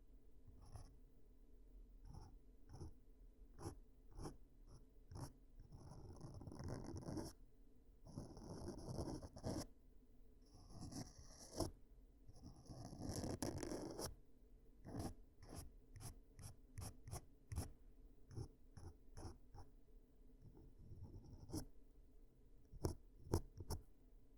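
Close-miked ear-cleaning sounds: crackling, scratching and clicking against the microphone. Scattered sharp clicks run throughout, broken by three longer scraping stretches about six, eight and eleven seconds in.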